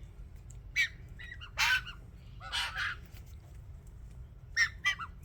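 White-winged choughs calling: a few short calls, with two longer, harsher calls about one and a half and two and a half seconds in.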